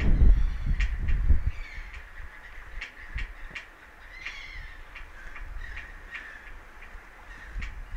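Birds calling over and over with short, harsh calls, over a low rumble that dies away after the first second and a half. Sharp clicks sound through it at short intervals.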